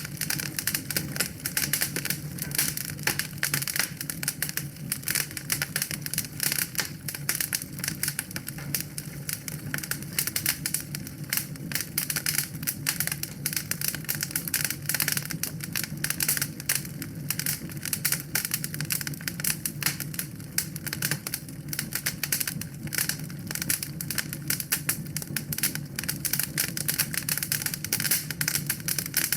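Wood fire crackling in a fireplace: dense, irregular pops and snaps over a steady low background noise.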